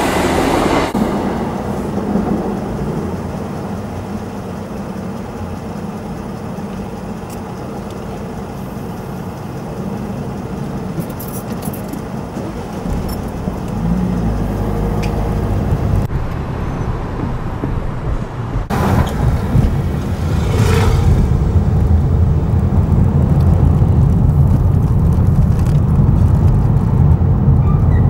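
The tail of a GWR diesel passenger train rattles over the level crossing in the first second and then fades. From about two-thirds of the way in, a vehicle drives along the road with a steady low rumble of engine and tyres.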